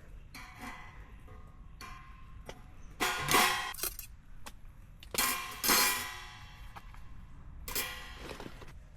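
Stainless steel fire-pit parts clanking and rattling in three loud handling bursts, each ringing briefly before it fades.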